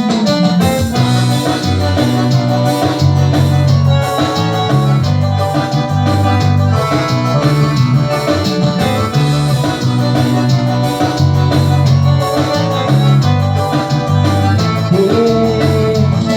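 Instrumental band music with a steady dance beat and a strong repeating bass line, playing the song's intro without vocals.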